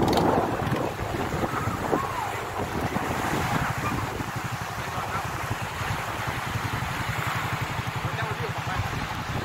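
Small motorcycle engine idling with a fast, even putter, under wind on the microphone and the wash of small waves.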